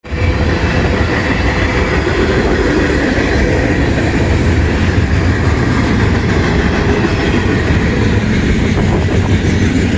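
CN freight train rolling past on the rails, a steady loud rumble.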